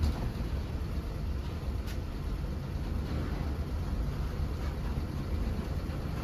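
Steady low rumble of a moving bus, engine and road noise heard from inside the vehicle.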